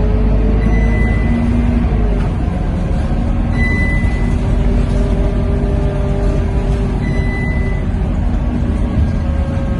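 Scania K230UB bus heard from inside the cabin while under way: its five-cylinder diesel engine runs with a steady deep rumble, its pitch drifting slowly up and down. A short high beep sounds three times, about three seconds apart.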